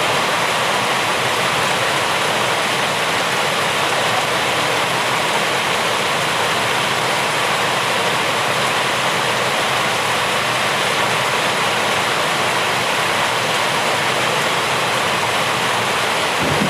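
Steady heavy rain, a dense even hiss with no single drops or thunder standing out.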